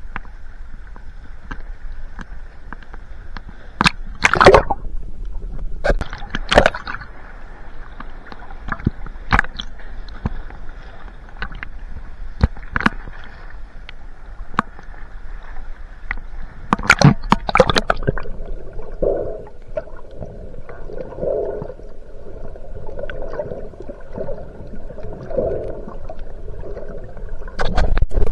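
Water sloshing and gurgling heard through an underwater camera, with a few sharp knocks. From about two-thirds of the way in, a muffled sound repeats every couple of seconds.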